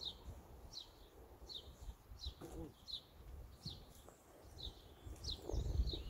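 A small songbird repeating one short, high, falling chirp over and over, about one and a half times a second. A low rumbling noise swells near the end.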